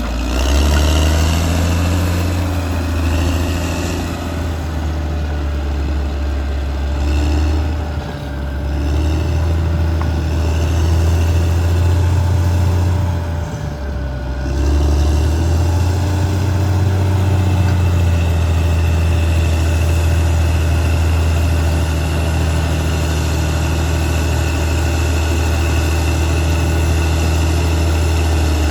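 Diesel engine of a Caterpillar D6R XL crawler bulldozer running steadily as the machine works, its pitch shifting as the load changes. It dips briefly about eight seconds in and again in the middle.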